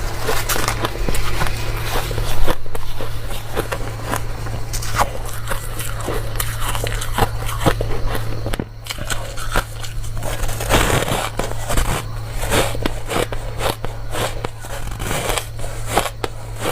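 Dry, crunchy ice being bitten and chewed close to the microphone: a rapid run of crisp crunches and crackles, with a brief lull about eight seconds in, over a low steady hum.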